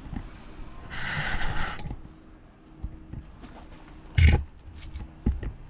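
Handling a homemade sheet-steel body panel: a scrape lasting about a second, then a sharp, loud knock about four seconds in and a lighter knock soon after.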